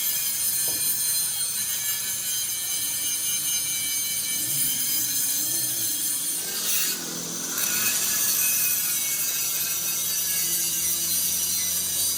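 A power tool grinding steel plate: a steady, rasping, high-pitched noise that changes briefly about seven seconds in.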